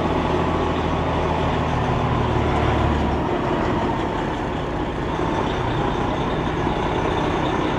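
Semi truck's diesel engine and road rumble heard from inside the cab while driving slowly through a turn. A deep steady drone drops away about three seconds in, leaving the rumble.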